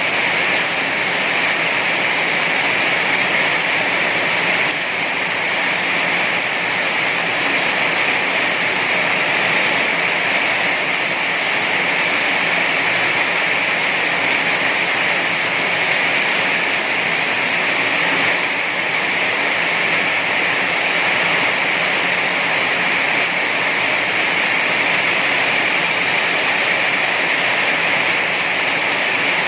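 Heavy rain falling steadily, a dense, even hiss with no breaks or separate drops standing out.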